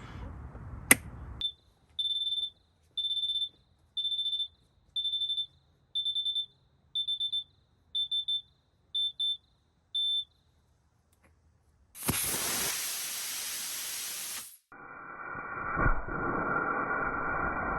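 Test-console beeper counting down with a high beep about once a second, the later beeps breaking into quick double and triple pulses. About two seconds after the last beep a high-power rocket motor fires on the test stand, a loud rushing burn of about two and a half seconds that cuts off abruptly, followed shortly by a steady, duller rushing noise.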